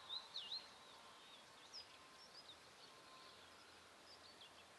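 Near silence, with faint, short, high bird chirps scattered through it, a few close together at the start.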